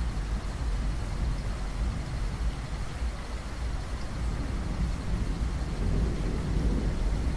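Heavy rain falling steadily, with a continuous deep rumble of rolling thunder that swells about six seconds in.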